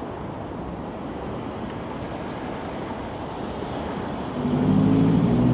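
Strong gusting wind rushing over the microphone, mixed with street traffic noise. About four and a half seconds in, a motor vehicle's engine hum swells loud as it passes close by.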